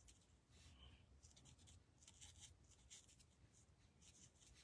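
Faint, quick scratchy strokes of an ink blending tool rubbed over cardstock, about two or three a second, as ink is layered onto a stamped image.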